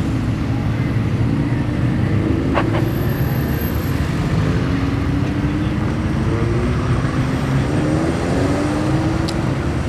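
Car engines running and pulling away, their pitch rising several times as they accelerate, over a steady low rumble of traffic.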